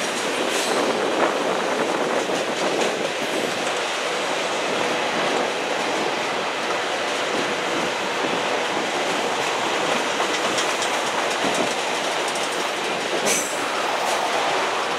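Freight cars (centerbeam lumber flatcars and boxcars) rolling past steadily: a continuous rumble of steel wheels on rail with clicking over rail joints, and a brief high squeal near the end.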